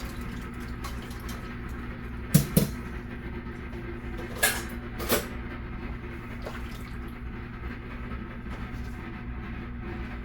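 Kitchenware knocking and clinking four times, two close together about two and a half seconds in and two more around five seconds, over a steady low hum.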